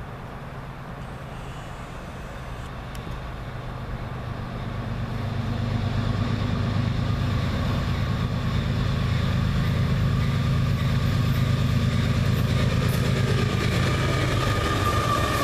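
A lashup of GE diesel locomotives on a freight train approaching and passing. Their low engine drone grows louder over the first several seconds and then holds. Near the end, the freight cars roll by with a thin squeal from the wheels.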